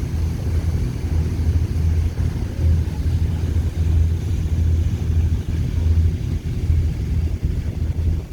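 Express Bahari 88 B fast ferry underway, its engines making a steady, loud low drone, with wind and water noise over it.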